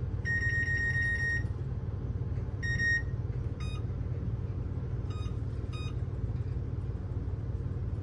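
Electronic beeps from a kitchen appliance's control panel. One long beep of about a second comes first, then a short beep, then several very brief blips spaced over the next few seconds. A steady low hum runs underneath.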